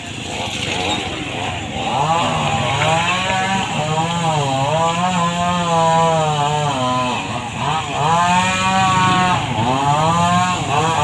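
Small petrol engine running and revving up and down, its pitch dipping and climbing back every couple of seconds.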